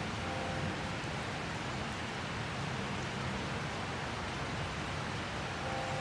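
Steady rain falling in a tropical rainstorm, a constant even hiss with a low rumble underneath.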